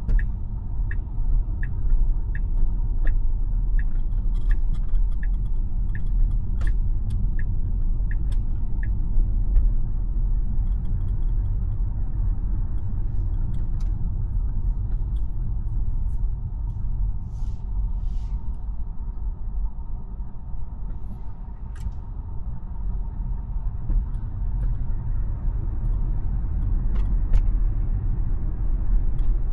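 Steady low road and tyre rumble heard inside a Tesla's cabin while it drives. Over it, for the first nine seconds or so, a turn-signal indicator ticks about twice a second, then stops.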